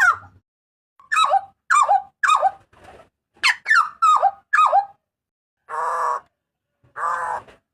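Papuan butcherbird (jagal papua) giving loud, sharp calls: about eight short notes, each sliding down in pitch, then two harsher, buzzy notes near the end.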